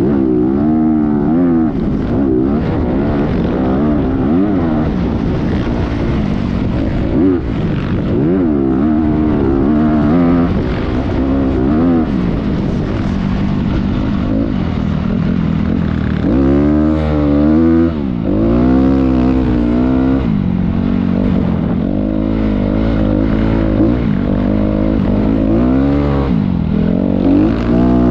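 Motocross dirt bike engine revving up and dropping back again and again as it is ridden. The pitch rises and falls every second or two, with a heavier, deeper stretch past the middle.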